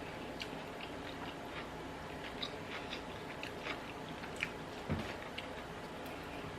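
Close-miked chewing of a mouthful of salad with chicken al pastor: scattered small, wet mouth clicks over a faint steady background, with one soft low thump about five seconds in.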